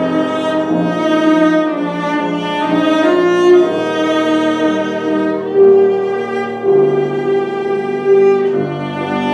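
Cello playing a melody of held, bowed notes, each about a second long, with piano accompaniment.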